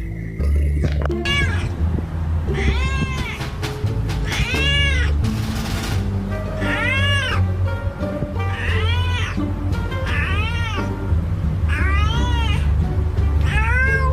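A cat meowing over and over, about seven rising-and-falling meows spaced a couple of seconds apart, over background music with a heavy bass line.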